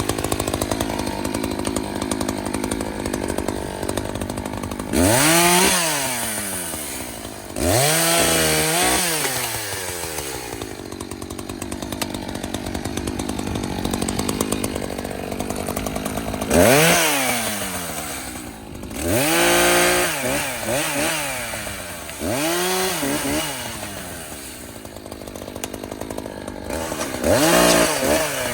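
Echo CS-590 Timberwolf two-stroke chainsaw running, revved up sharply about six times with its pitch falling back after each rev and running lower in between.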